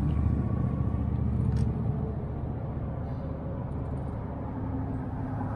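Low rumble of road traffic, loudest in the first two seconds and then easing off, with a single sharp click about a second and a half in.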